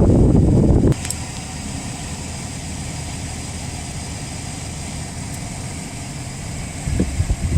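Rolls-Royce Dawn's twin-turbo V12 idling steadily just after a cold start. Heavy rumbling wind noise on the microphone covers it for about the first second and again near the end.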